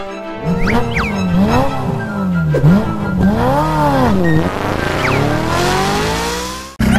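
Recorded sports-car engine revving sound, its pitch swooping up and down several times and then climbing in one long rise, cutting off suddenly near the end.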